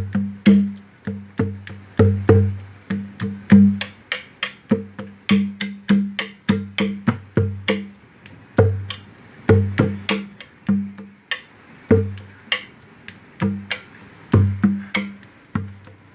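A goat-skin conga drum played with the hands in a steady rhythmic pattern of ringing strikes, about two to three a second.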